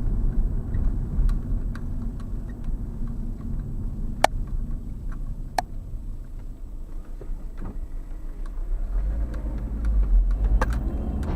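A moving vehicle's road and engine rumble, heard from the cabin, with scattered clicks and rattles; one sharp click comes about four seconds in, and the rumble grows louder near the end.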